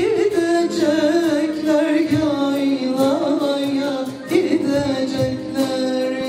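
A Turkish folk song performed live: singing over sustained instrumental accompaniment with a steady beat.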